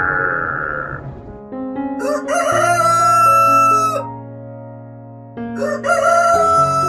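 A rooster crowing twice, each crow a rising start into a long held note of about two seconds.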